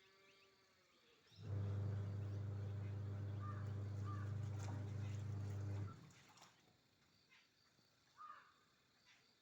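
A steady low hum that starts suddenly about a second and a half in and stops about six seconds in, with a few faint short chirps, likely birds, over and after it.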